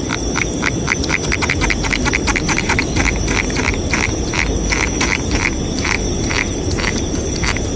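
Frogs calling: a fast run of short chirps, several a second, over a steady high insect whine.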